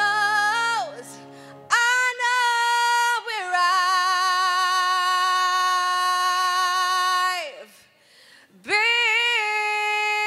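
A woman singing solo into a microphone, holding long notes with vibrato, with a sustained piano chord dying away at the start. One note is held for about four seconds in the middle, followed by a brief break and another held note.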